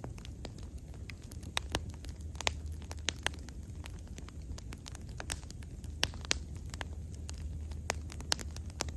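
Bonfire burning with irregular sharp crackles and pops of burning wood, over a steady low rumble of the flames.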